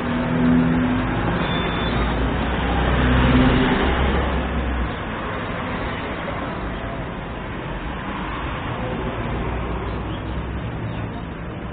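Street traffic: a motor vehicle's engine goes by close in the first few seconds, over a steady traffic rumble that settles a little quieter after about five seconds.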